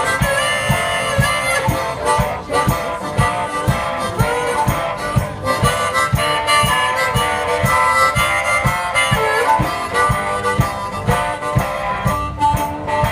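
One-man band playing an instrumental break: a harmonica solo with bending, held notes over guitar and a steady low drum beat of about three thumps a second.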